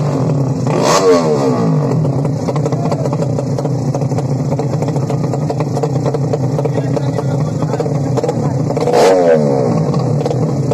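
Racing motorcycle engines at a drag race: a steady engine drone throughout, with a bike going by at high revs about a second in and again near the end, its pitch falling as it passes.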